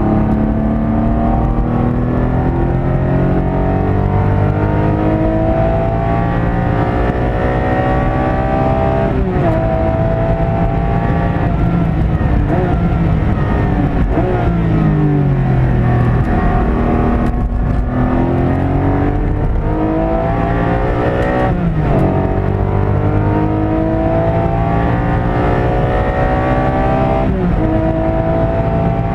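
Porsche 718 Cayman GT4's flat-six engine heard from inside the cabin under hard acceleration on track. The revs climb repeatedly, with sudden drops in pitch at gear changes three times, and a slower fall in revs partway through as the car lifts off before accelerating again.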